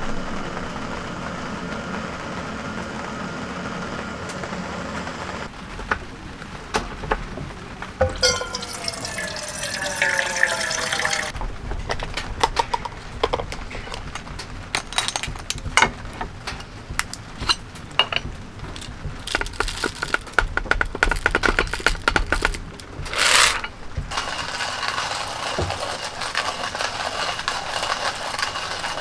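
Water being poured into a container, the pitch rising as it fills over about three seconds, amid scattered clicks and knocks of camp gear being handled over a steady background hiss of rain.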